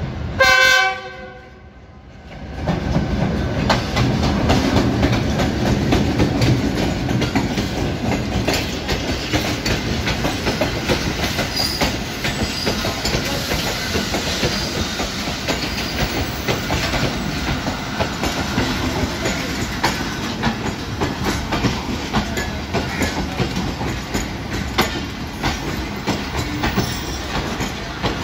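Pakistan Railways GEU-20 diesel-electric locomotive sounds its horn in one short blast of about a second. The train then runs past close by: steady rolling rail noise with repeated wheel clicks over the rail joints as the passenger coaches go by.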